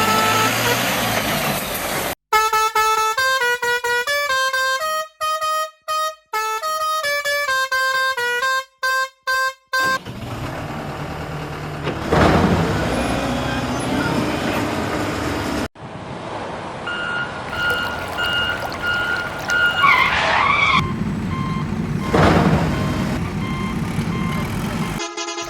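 Edited vehicle sound effects: horn honking at first, then a tune of short clear notes, then engine running with a repeated beeping and a swooping whine near the end.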